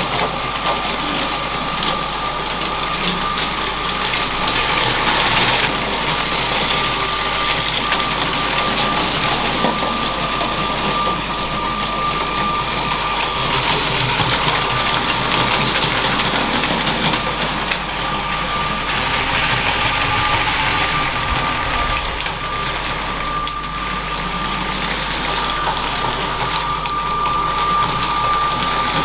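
Motorized LEGO train running on plastic track: a steady motor and gear whine over rolling wheel noise, with a few sharp clicks near the end.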